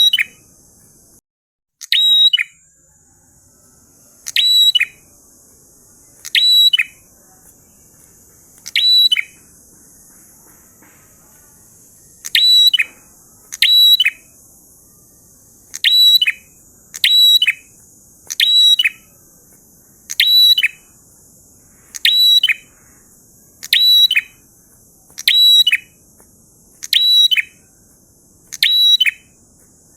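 Prinia (prenjak) singing, repeating one short, shrill chirping phrase about every one and a half to two seconds, with a steady faint high hiss behind it.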